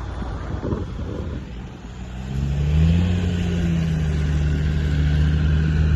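An off-road 4x4's engine: low rumbling noise at first, then about two seconds in the engine note comes up, rises briefly as it revs and holds steady.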